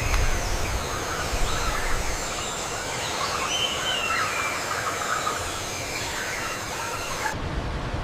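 Steady rushing noise with faint, wavering high squeaks over it. It changes abruptly near the end, losing its highest part.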